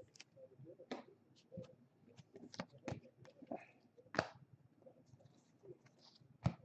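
Trading cards being handled: scattered light clicks and short rustles of cards and packs sliding and tapping, with a sharper tap a little past four seconds and another near the end.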